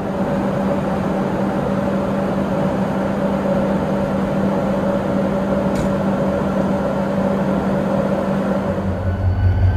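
Steady mechanical hum of a train, with two held tones over an even rush and a single click about six seconds in; near the end it shifts to a deeper drone.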